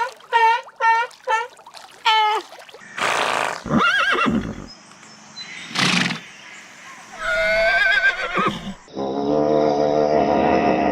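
A run of different animal calls: short repeated pitched calls at first, then breathy blasts, a wavering call, and a long low buzzy call near the end.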